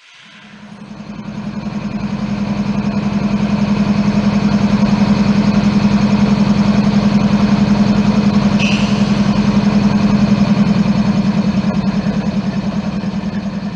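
Diesel locomotive engine running, a steady low drone with a fast pulsing beat that builds up over the first few seconds and then holds. A brief higher hiss comes about two-thirds of the way through.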